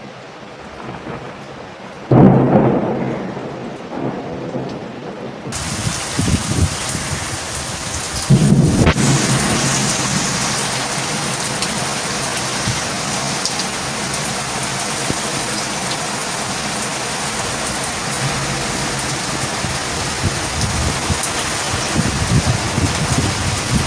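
Torrential rain with thunder: a loud thunderclap about two seconds in that rumbles away, then heavy rain hissing steadily from about five seconds in, with a second clap of thunder around eight seconds in.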